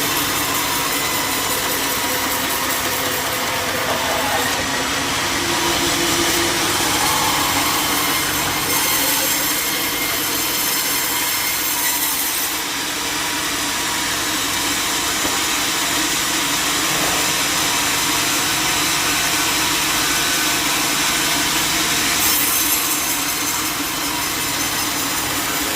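Sawmill blade cutting steadily through a log, with the mill's engine running under the cut.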